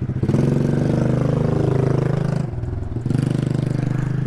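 Small gas mini bike engine being revved: the throttle opens sharply just after the start and is held high, drops off briefly a little past halfway, then opens up again.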